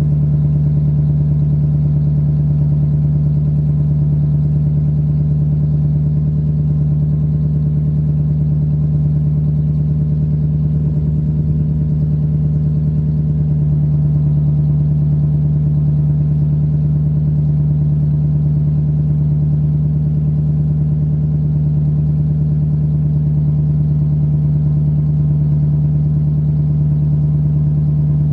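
1993 Lexus LS400's 4.0-litre V8 idling steadily through a catless exhaust: gutted catalytic converters, 2.5-inch pipe to a Y-pipe and a single box muffler, out to 3-inch tips.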